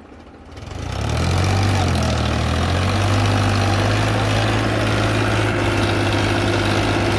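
Farmtrac tractor's diesel engine swelling up from quiet about a second in, then running steadily at high revs under load as it pulls a trolley out of mud.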